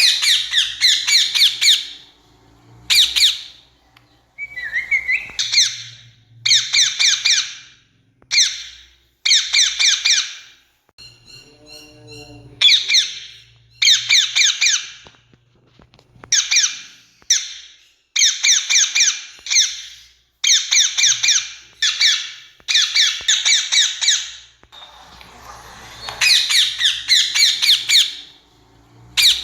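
Rose-ringed parakeets giving shrill screeching calls, in a long series of bursts: each burst is a fast run of harsh notes, with short pauses between bursts.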